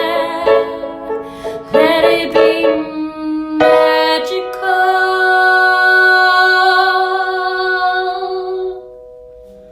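Solo piano music closing on a long held chord that fades away and then stops.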